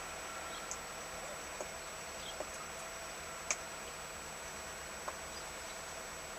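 Faint steady hiss with a few light, scattered clicks, the sharpest about three and a half seconds in.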